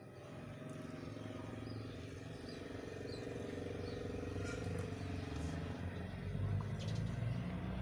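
A motor vehicle's engine running and slowly getting louder, as if approaching, with a few faint bird chirps in the first half.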